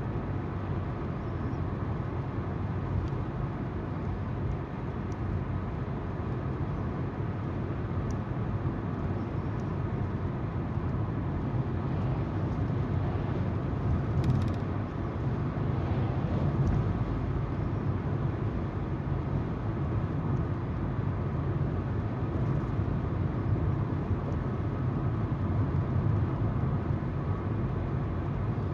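Steady road noise inside a moving car: tyres on the road surface and the hum of the engine, even throughout.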